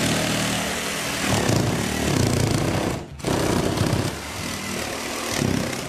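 Power saw cutting a hole through the ceiling for a chimney, running steadily, with a short break about three seconds in.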